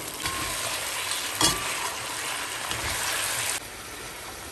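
Chicken and onion sizzling in a hot stainless wok as dark soy sauce is stirred through, with one sharp knock of the utensil against the pan about a second and a half in. The sizzling cuts off abruptly near the end, leaving a quieter steady hiss.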